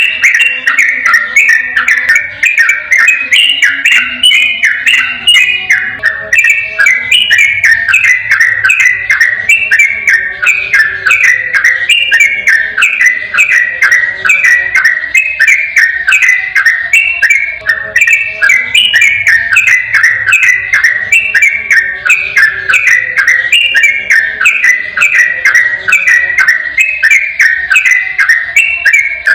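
Yellow-vented bulbul singing a rapid, unbroken string of short whistled phrases, one after another with no pause, in the fast 'ropel' style used as a master song for training caged birds.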